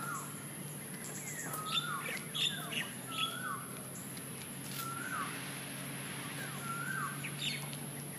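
Birds calling outdoors: one bird repeats a short rising-then-falling call every couple of seconds, while sharper, higher chirps come in between about two and three seconds in.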